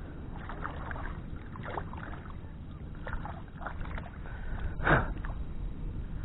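Scattered small knocks and rustles of handling in a small boat over a steady low rumble, with one louder knock about five seconds in.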